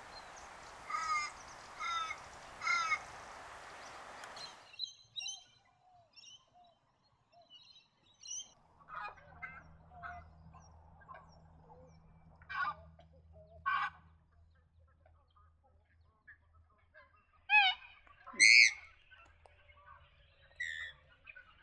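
Bird calls at the waterside: three calls over a noisy background in the first few seconds, then scattered short calls and chirps, with the loudest pair of calls about three-quarters of the way through.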